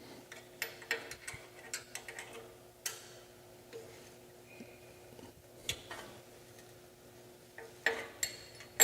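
Scattered metal clicks and clinks of a wrench turning the motor's tensioning screw as the motor is pivoted to straighten and tension the drive belts, over a faint steady hum.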